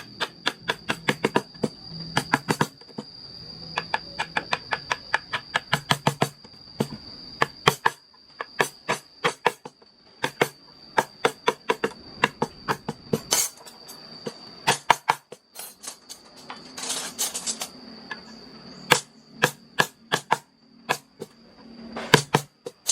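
Mallet tapping a carving chisel into wood: quick runs of sharp taps, about five a second, with short pauses between runs.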